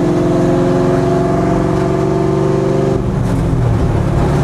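Fox Body Mustang race car's engine running loud and steady at a constant speed, heard from inside the bare cabin with no panels or windows. About three seconds in, the revs dip briefly, then pick up and settle again.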